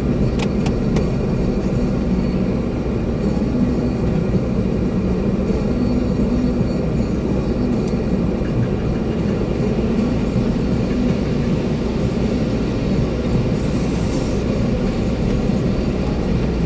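Concrete mixer truck running steadily during a pour, heard from inside the cab: a continuous, loud, low engine and drum noise.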